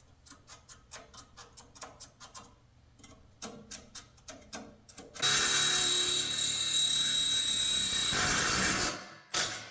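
Faint scratching and ticking of marking on steel, then about five seconds in a power cutting tool starts cutting the steel frame, running loud and steady with a high whine for about three seconds before winding down, with one short burst near the end.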